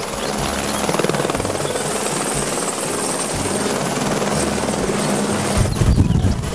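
Light single-engine helicopter (an Airbus AS350 Écureuil) hovering: a rapid, even rotor chop with a steady high turbine whine. The low rotor beat grows stronger near the end as the aircraft turns side-on.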